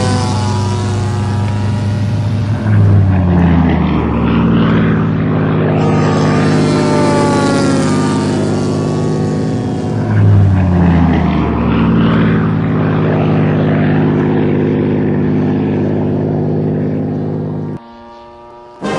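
Engine of a radio-controlled model warplane flying past twice, each pass getting louder and then dropping in pitch. The sound cuts off suddenly about a second before the end.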